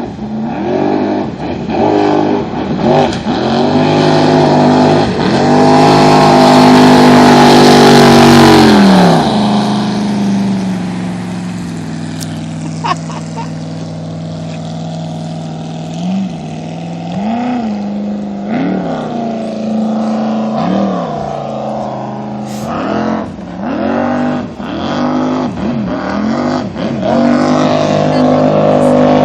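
A custom jet boat's big-block V8, 464 cubic inches bored .060 over, revved in quick blips, then held high for a few seconds. It drops back to a steady idle, takes several more throttle blips, and the revs come up again near the end.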